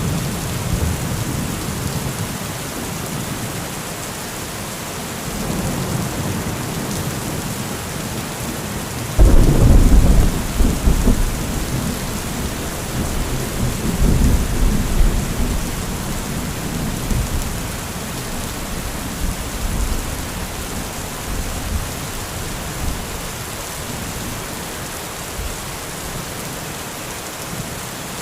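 Heavy rain falling steadily with rolling thunder: a sharp, loud crack of thunder about nine seconds in that rumbles on and fades over the next several seconds, with softer rumbles before and after it.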